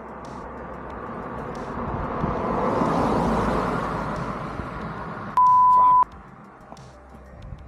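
A passing road vehicle, its noise swelling to a peak and fading over a few seconds. Then comes a single loud, steady electronic beep about half a second long, a pure tone like an edit's censor bleep.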